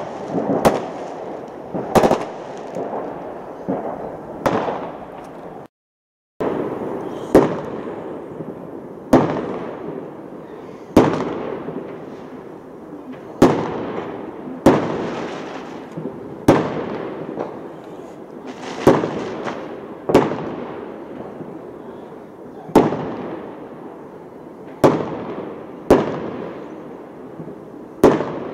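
Fireworks display: aerial shells bursting in a steady series, about one bang every second or two, each followed by an echo that fades away. The sound cuts out completely for about half a second around six seconds in.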